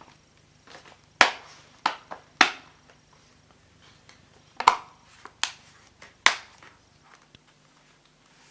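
Plastic screen bezel of an ASUS TUF FX705GB laptop snapping onto the lid as it is pressed down by hand: about six sharp clicks at uneven intervals, each one a clip locking into place.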